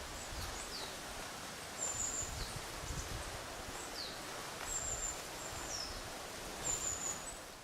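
Small birds calling: short, high, thin notes and quick falling chirps, repeated every second or so, over a low steady rumble of outdoor ambience.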